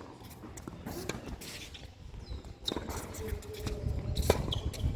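Footsteps on a tennis court and several short, sharp knocks from a tennis ball, the loudest one just past four seconds in.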